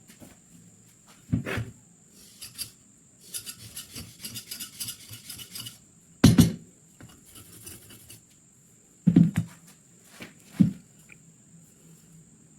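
Hand work on metal gun parts: a few sharp knocks of metal set down or struck, and, from about three to six seconds in, a run of quick rasping strokes like filing or scrubbing a part.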